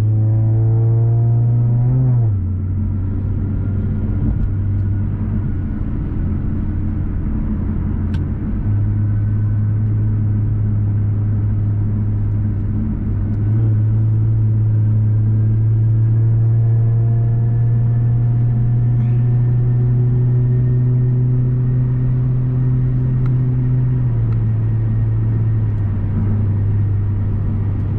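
Infiniti Q50S twin-turbo 3.0-litre V6 cruising through resonated Boosted6 lower downpipes: a steady, light, low exhaust drone. Its pitch steps down about two seconds in, rises again around nine and thirteen seconds, and drops near the end.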